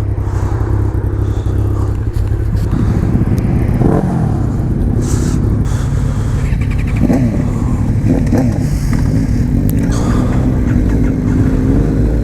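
Motorcycle engines idling, with a few short revs that rise and fall in pitch about four, seven and eight seconds in.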